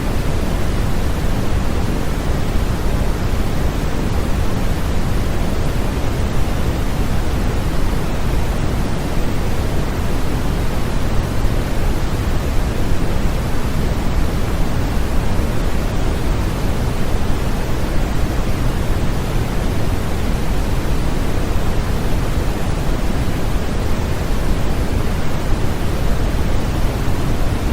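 Steady, unchanging noise used as a baby sleep aid: an even hiss weighted toward the low end and thinning toward the highs, with no breaks or events.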